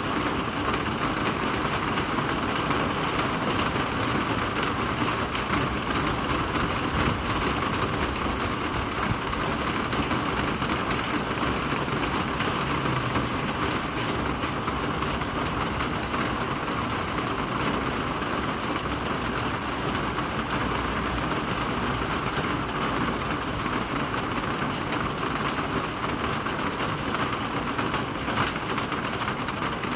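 Steady rainfall, a constant even hiss with many small drop ticks on a hard surface.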